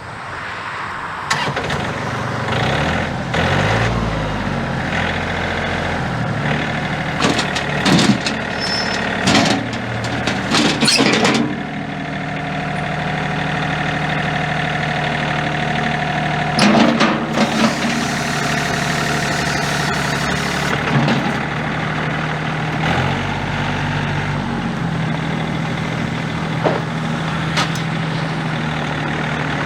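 A John Deere 3005's three-cylinder Yanmar diesel engine running, its speed rising in the first few seconds and changing a couple of times after that. Several sharp clanks sound over the engine, most of them between about 7 and 11 seconds in, and another around 17 seconds.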